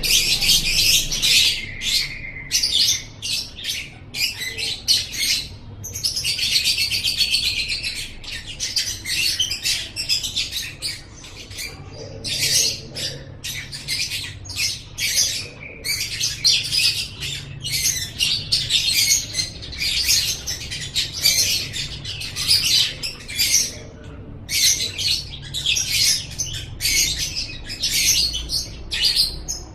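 Lovebird singing: a fast, high-pitched stream of chattering chirps and trills with hardly a pause, including one longer unbroken trill about a quarter of the way in.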